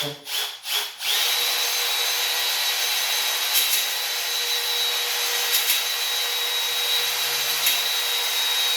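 Electric drill spinning a cylinder hone inside a cylinder bore of a Ford 289 V8 block. A few quick blips of the trigger in the first second, then a steady run with a high whine: the final slow pass to even out the honed finish.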